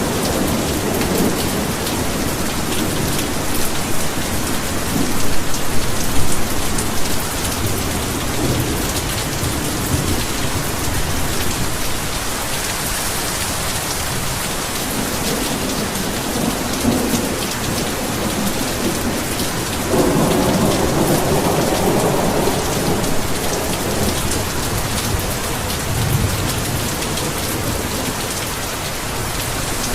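Heavy rain pouring steadily, with rolls of thunder rumbling low under it, the longest swelling up about two-thirds of the way in.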